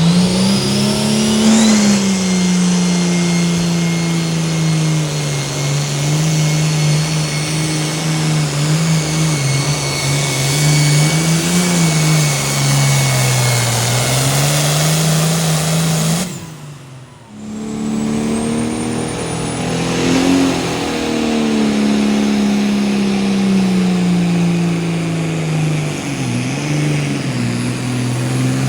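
Competition pulling vehicle's engine running hard at high revs under load, its pitch wavering up and down. The sound drops away sharply for about a second around the middle, then the engine comes back at full revs.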